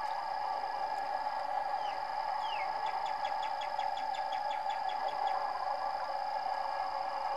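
A bird calls: two short downward-sliding whistles, then a fast trill of about fifteen even chirps lasting a couple of seconds, over a steady droning hum.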